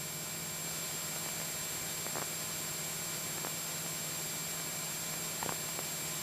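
Steady static hiss with a low, even hum on the light aircraft's radio/intercom audio, broken only by a few faint clicks.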